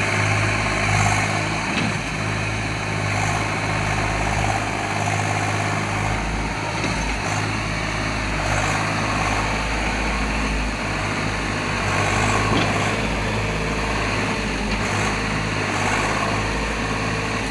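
Tractor diesel engine running steadily at an even pitch, with a low rumble beneath it.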